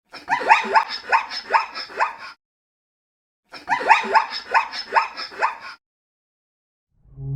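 An animal calling in two quick bouts of short yelps, each rising sharply in pitch, about three a second. A low ringing tone like a gong or singing bowl starts near the end.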